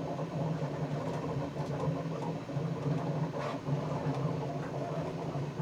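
Steady low hum of a machine running in the room, with a few faint clicks.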